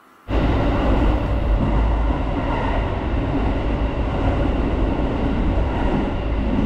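Running noise heard inside the passenger car of a moving local electric train: a steady, loud rumble with a heavy low drone, cutting in suddenly about a quarter second in.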